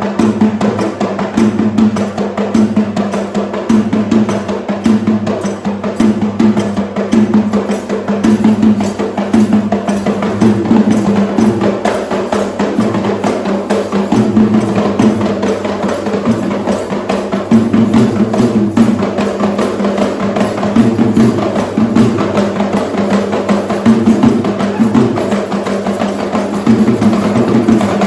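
Sri Lankan traditional drumming: fast, dense, unbroken drum strokes with no pause.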